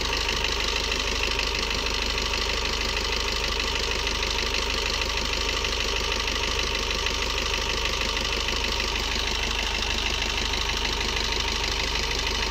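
Maruti Baleno 1.3-litre diesel engine idling steadily. A carbon-cleaning liquid is being drawn into it drop by drop from a syringe.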